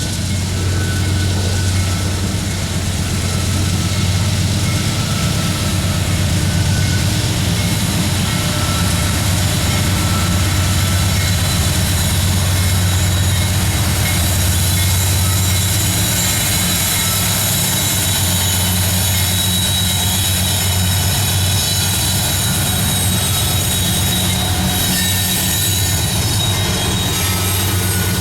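Westbound coal train rolling past, a steady low rumble of the cars' wheels on the rails with faint thin squealing tones above it.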